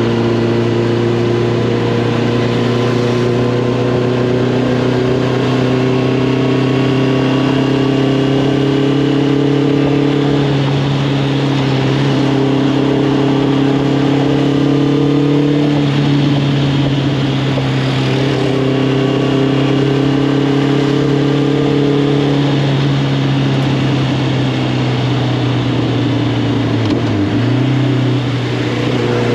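Honda CB650R's inline-four engine running through an Arrow Thunder full aftermarket exhaust while riding, its note holding steady and drifting gently up and down with the throttle. The note dips briefly near the end as the throttle is rolled off.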